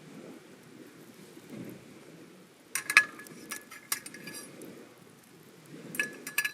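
Metal cooking utensils clinking against metal cookware in two short clusters of sharp clinks with a brief ringing tone, about three seconds in and again near the end, over a steady low background rustle.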